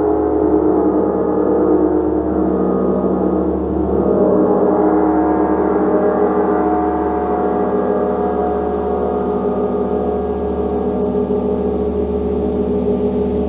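A gong being played continuously: a dense, sustained wash of many overlapping ringing tones over a steady low hum, the level holding fairly even throughout.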